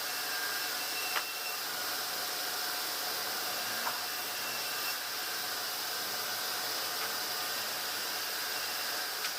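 Sawmill machinery running: a steady mechanical hiss with a faint hum, and a few faint clicks.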